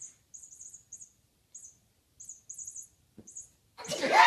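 Small bird chirping: short, very high chirps in quick clusters of two or three. Near the end a loud voice cuts in.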